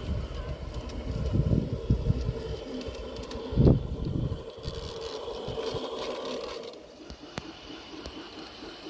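A G-scale garden railway model train running, its motor giving a steady hum that stops about seven seconds in. Wind buffets the microphone in low gusts over the first few seconds, with one loud thump a little before the four-second mark.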